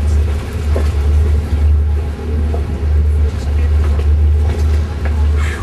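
Wind buffeting the camera's microphone on a boat under way: a loud, low rumble that swells and dips every second or so, over a wash of water and wind noise.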